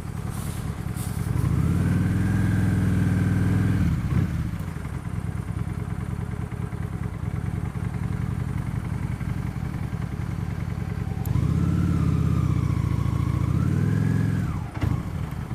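Honda Shadow Spirit 750's V-twin engine pulling for a couple of seconds, dropping back to a low steady run, then pulling again about eleven seconds in, its pitch climbing, dipping and climbing before it falls away near the end.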